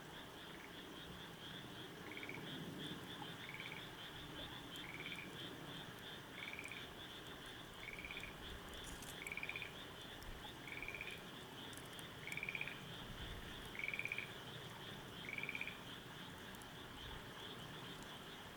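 A frog's short trilled call, repeated about every second and a half, some ten times, over a steady high pulsing trill.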